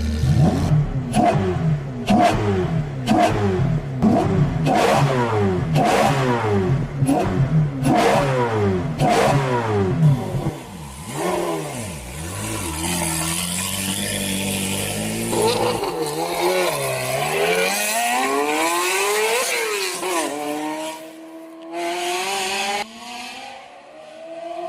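A DeLorean's engine is revved in quick repeated blips, about one a second, with sharp cracks among them. It then goes into slower, longer rises and falls in engine pitch, and a long climbing rev near the end.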